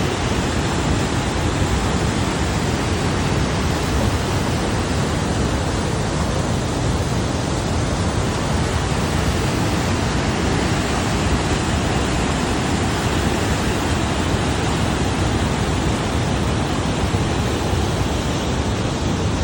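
Shuonijoki waterfall rushing: a loud, steady, unbroken roar of falling water.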